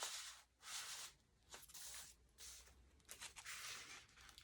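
Faint paper rustling: heavy magazine-page sheets of a handmade journal being handled and turned, in about five short, soft swishes.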